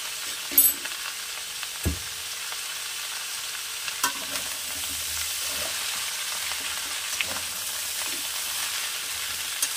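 Chopped vegetables sizzling in hot mustard oil in a metal kadai over a high gas flame, with a steady frying hiss. A metal spatula stirs them, scraping and clinking against the pan: a sharp clink about half a second in, a knock near two seconds, and a click around four seconds.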